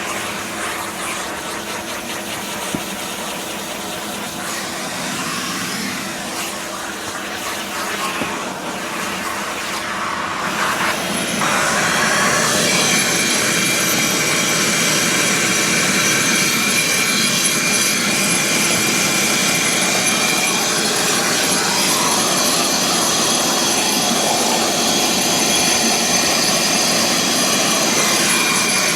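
Steady rushing noise. About eleven seconds in, a machine motor switches on and runs steadily, louder, with a high whine.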